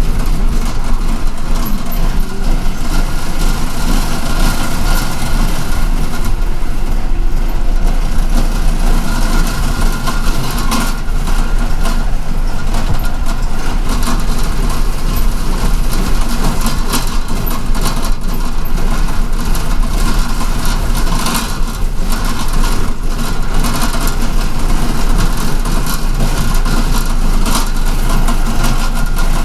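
Cabin noise inside a city transit bus: a steady low engine rumble and road noise, with scattered short knocks and rattles.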